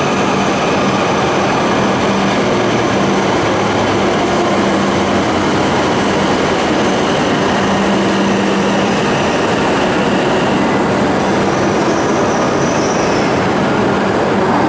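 Shinkansen train moving along the platform track: a loud, steady rumble of wheels and running gear, with a steady hum that stops about eleven seconds in.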